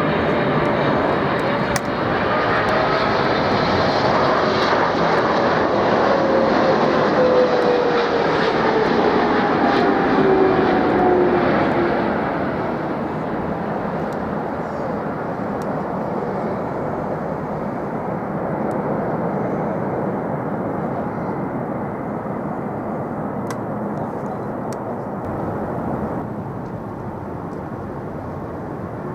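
Jet airliner passing close by on approach to land, its engine whine falling steadily in pitch as it goes past, loudest in the first dozen seconds, then settling into a quieter, steady rumble as it moves away.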